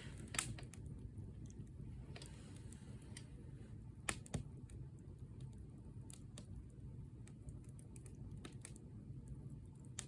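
Wood campfire crackling: irregular sharp snaps and pops over a low steady rumble, with a couple of louder pops near the start and about four seconds in.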